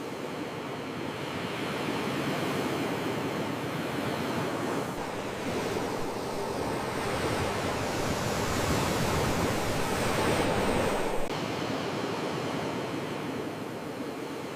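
Sea waves washing in, a steady rushing surf that swells louder from about five seconds in and drops back suddenly about eleven seconds in.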